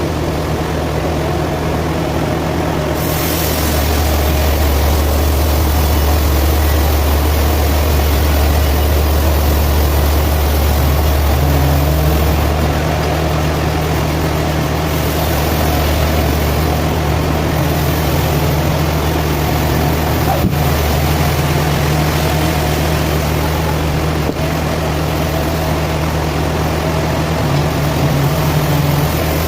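Sawmill machinery running steadily: a loud, constant low engine-like hum under a noisy wash, growing a little louder a few seconds in.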